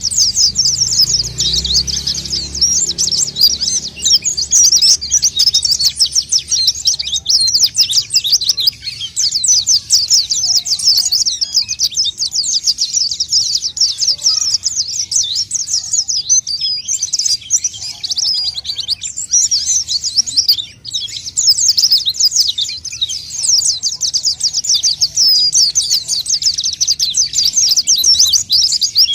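White-eye (pleci) singing nonstop in a fast, twittering stream of high chirps, with a short break about 21 seconds in: the continuous 'gacor' song used as a lure call to attract other white-eyes.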